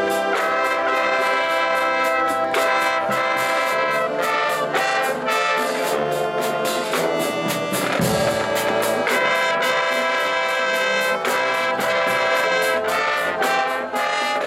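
HBCU marching band playing: a full brass section of trumpets and trombones sounding loud held chords over a steady, driving drum beat.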